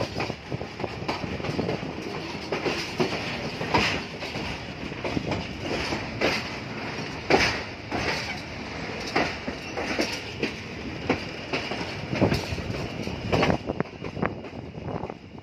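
Moving passenger train heard from an open coach window: a steady rumble of wheels on rails, with irregular clickety-clack from the wheels passing over rail joints.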